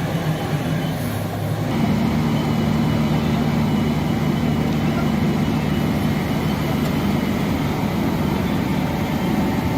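Heavy engine running steadily; about two seconds in its note steps up higher and louder and then holds.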